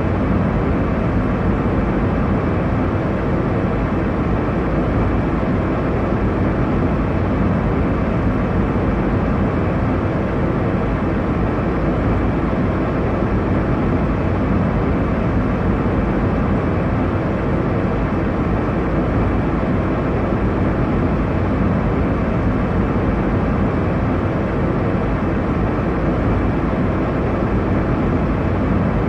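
Airliner cabin noise: a steady, unchanging rumble and rush of engine and airflow, heaviest in the low end.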